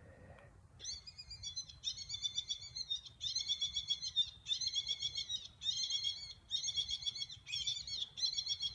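A bird-like call repeated as a string of about eight harsh, buzzy squalls, each under a second long and coming about one a second, starting about a second in.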